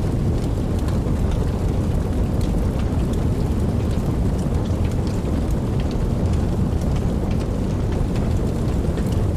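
Steady rainfall over a deep, continuous low rumble, with scattered sharp drop ticks on top.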